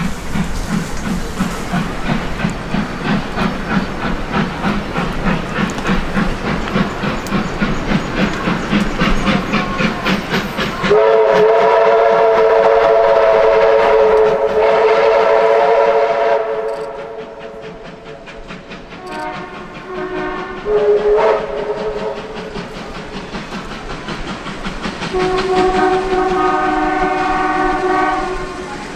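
A train running past with a fast rhythmic beat, then the chime whistle of steam locomotive R766: one long blast about eleven seconds in, two short toots around twenty seconds, and another long blast near the end.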